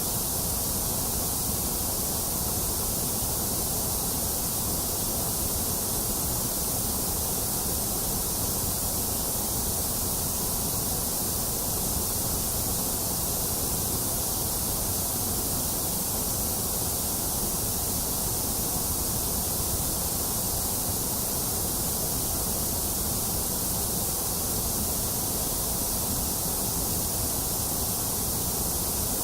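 Steady, unchanging white noise: an even hiss, brightest in the highest register, with a weaker middle band.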